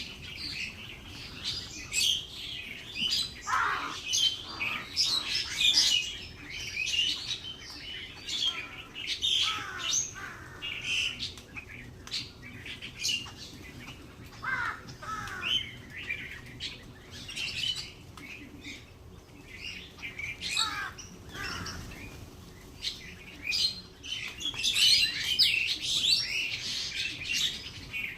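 Several birds chirping and twittering in quick, short calls, overlapping into a denser burst of chirping in the last few seconds.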